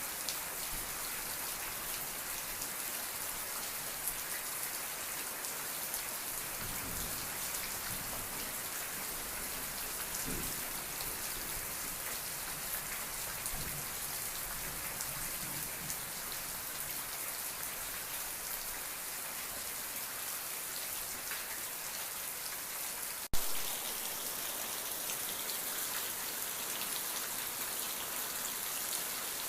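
Steady rain falling on a surface, an even, dense patter. About three-quarters of the way through, a single sharp click cuts through it.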